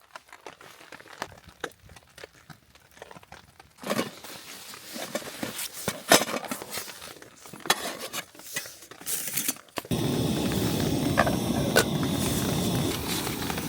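Small clicks and knocks of camp cookware and gear being handled. About ten seconds in, a steady hiss starts abruptly and keeps going.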